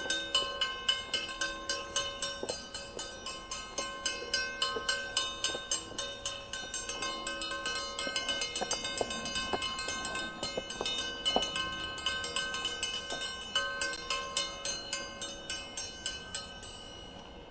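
A metal bell rung rapidly and continuously, each strike leaving clear ringing tones that blend into one another, then stopping suddenly shortly before the end. This is tanging: the bell is rung to settle a hive that is starting to swarm so the bees stay home.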